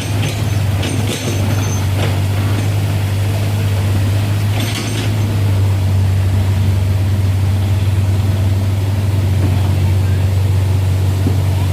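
Sonalika DI-35 RX tractor's diesel engine running steadily with a deep, even drone, with short hissing bursts right at the start and again about four and a half seconds in.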